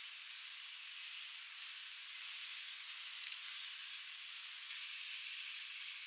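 Steady outdoor hiss with no low sound in it, and a few faint, very high, short chirps from small birds at the feeder.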